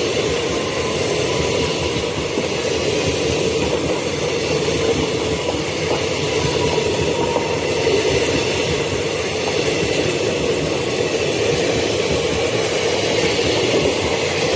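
Indian Railways passenger train's coaches passing on the nearest track: a steady, unbroken rumble and rattle of wheels on the rails.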